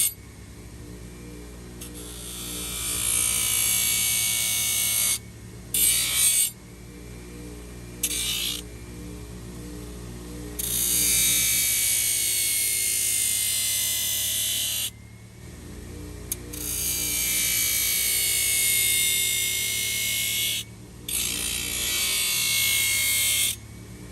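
Handheld power tool grinding a horse's hoof in a series of bursts lasting from under a second to about four seconds, each a harsh hiss over a motor whine, with soft background music beneath.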